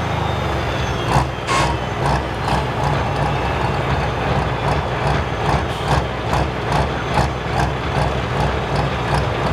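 A pro stock pulling tractor's heavy diesel engine running slowly, with a regular knocking pulse about two to three times a second.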